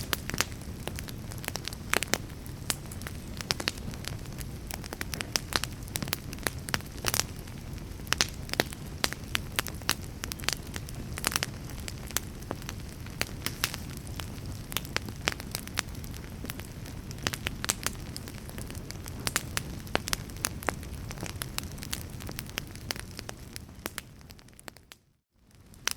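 Fire crackling: frequent sharp pops and snaps over a steady low rumble of burning. Near the end the sound fades out to almost nothing and then fades back in.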